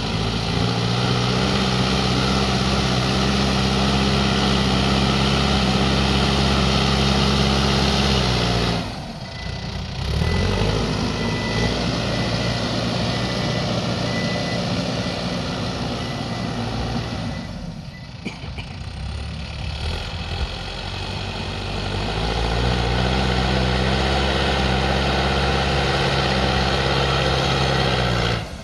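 Backhoe loader's diesel engine revving up and holding high revs while working, then dropping back, over and over: three long high-rev stretches with dips between them. A thin steady whine sounds through part of the middle stretch.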